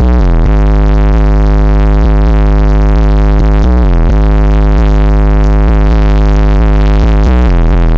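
Bass-heavy electronic music played very loudly through a custom car audio system, with deep steady bass and falling pitch sweeps near the start, midway and near the end.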